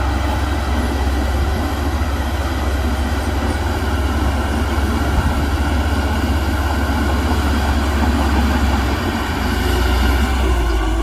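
Heavy diesel earthmoving machinery running steadily under load, a deep engine drone with a dense mechanical clatter over it.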